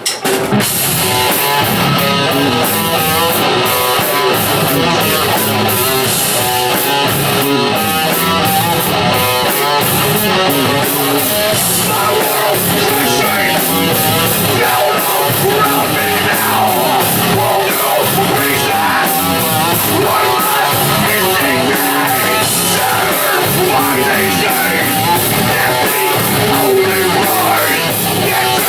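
Live rock band playing a song at full volume: electric guitar over a drum kit, kicking in at once after the count-in.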